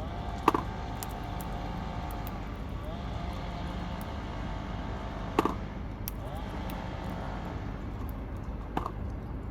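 Three sharp knocks, spaced several seconds apart, over a steady low hum and a faint held tone that slides up in pitch now and then.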